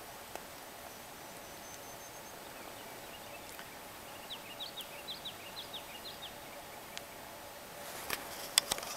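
Quiet outdoor background in which a small songbird sings a quick run of about ten short, down-slurred chirps, starting a little before halfway. A few sharp clicks come near the end.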